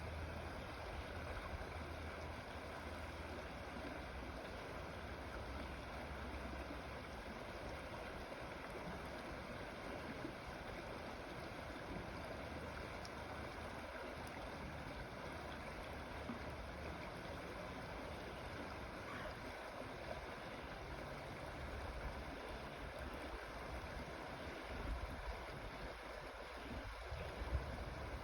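Creek water flowing steadily, an even rushing with a low rumble underneath.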